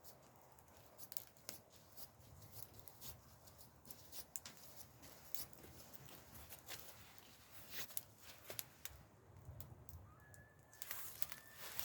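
Faint, irregular clicks and small snaps, scattered unevenly, with a brief faint high chirp near the end.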